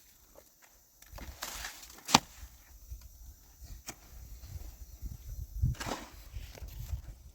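Scuffing and rustling sounds with a single sharp knock about two seconds in, over a low rumble.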